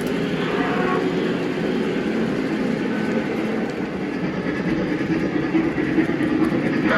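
Model electric train running on the layout's track: a steady rumble of wheels and motor that grows a little louder in the last couple of seconds.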